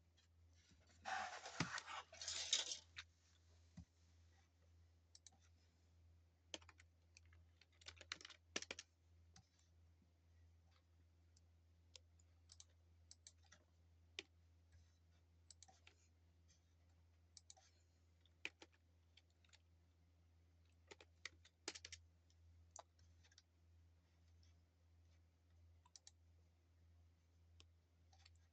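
Faint scattered clicks and taps, irregular and spread throughout, with a denser rustling burst about a second in, over a low steady hum.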